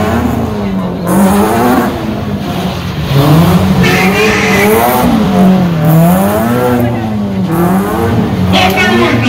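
Car engine held at high revs, its pitch swinging up and down again and again as the car performs a stunt run.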